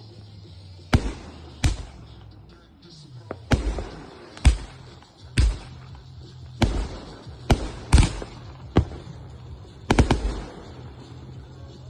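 Backyard consumer fireworks going off: about ten sharp bangs spaced irregularly, roughly a second apart, each trailing a short rumble.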